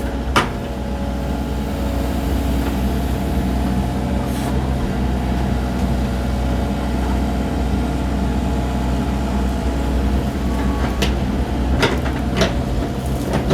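Excavator's diesel engine running steadily, with a few short sharp knocks near the start and in the last couple of seconds.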